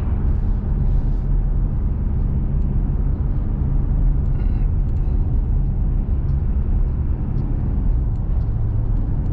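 Steady engine hum and road rumble inside a truck's cabin while driving.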